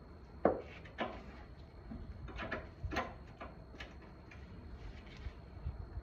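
Irregular metallic clicks and knocks of a hand wrench working on a car's rear brake line fitting, the loudest about half a second in.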